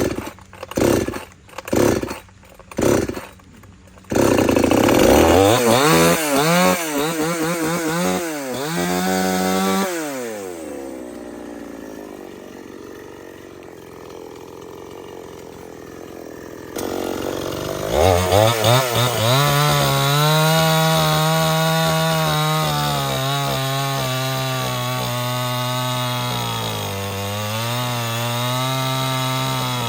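Four short loud bursts, then a two-stroke Stihl 070 chainsaw starts and is revved up and down. It drops back to a quieter idle, then is brought up to a high, steady pitch and held there while cutting into wood, with a brief dip in revs near the end.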